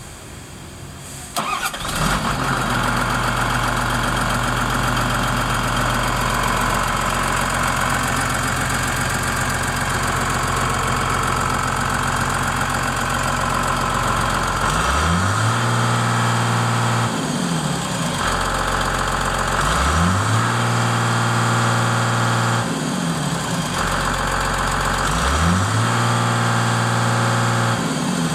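John Deere 544J wheel loader's six-cylinder diesel engine starting about a second in, then idling steadily. Later it is revved three times, each rise held for two or three seconds before dropping back to idle.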